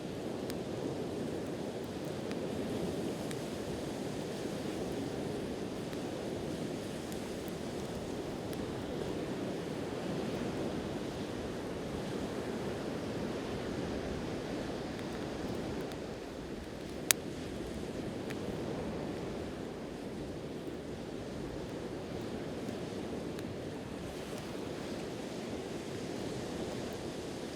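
Steady wash of sea waves with a wood campfire crackling faintly; one sharp pop of burning wood about two-thirds of the way through.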